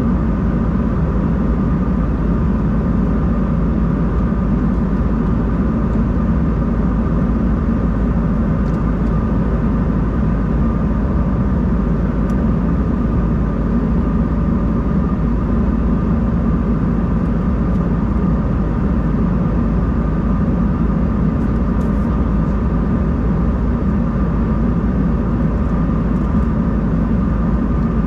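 Steady cabin noise inside an Embraer 190-E2 airliner: a constant low rumble from its turbofan engines, with a faint steady whine above it.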